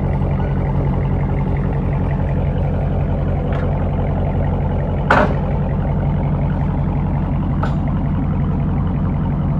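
2017 Dodge Charger Daytona's 5.7-litre HEMI V8 idling steadily through an exhaust with the mid-mufflers removed, resonators kept. A sharp click about five seconds in, with a fainter tick before and after it.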